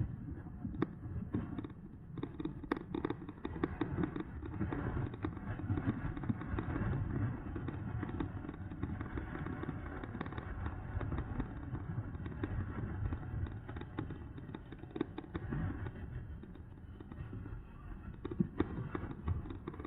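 Riding noise from an electric mountain bike in motion: a steady low rumble of wind and tyres with frequent small clicks and knocks from the bike over bumps.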